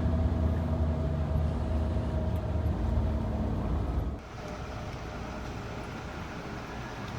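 A motor vehicle's engine running with a steady low hum. About four seconds in it cuts off suddenly to a quieter, steady background noise.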